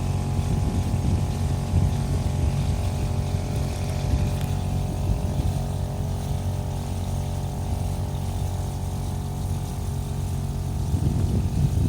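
A sailboat's engine running steadily at a constant pitch while motoring with the sails down.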